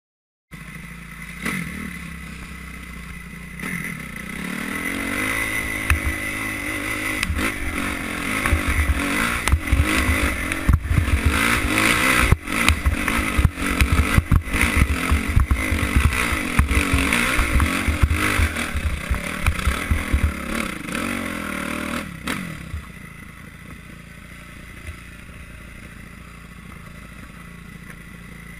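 Enduro dirt bike engine heard from on the bike, revving hard and rising and falling under load on a steep loose climb, with knocks and clatter from the bike bouncing over the rough ground. About 22 seconds in the engine note drops away to a quieter steady running.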